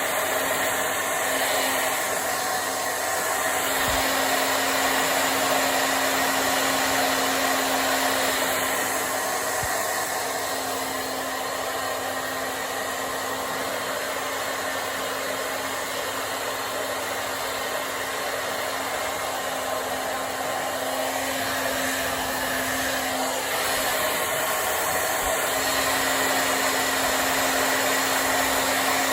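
Handheld hair dryer running steadily, a rush of air over a steady motor hum, blowing on hair. Its loudness rises and falls a little.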